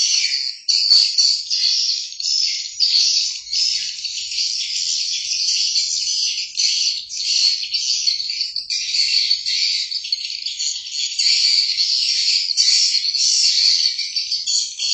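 Dense, unbroken high-pitched chirping and trilling from small birds, many short notes crowding over one another.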